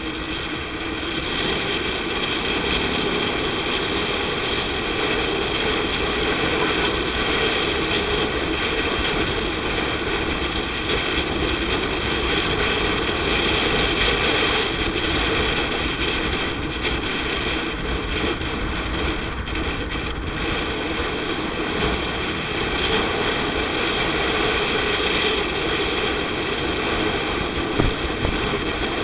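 Motorcycle riding along at a steady pace: engine running with road noise, an even drone without changes in pitch.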